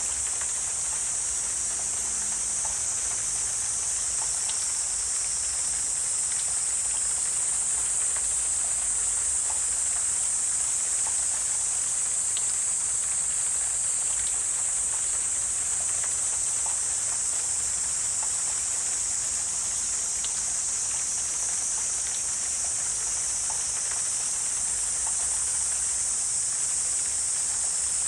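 Steady, high-pitched insect chorus droning without a break, with faint scattered ticks underneath.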